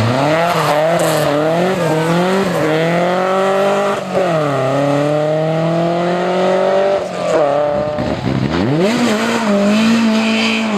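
Historic rally car's engine at full throttle on a stage. The revs climb, drop sharply at a gear change about four seconds in, and climb again. They fall away around seven to eight seconds as the driver lifts off, then pick up and hold high.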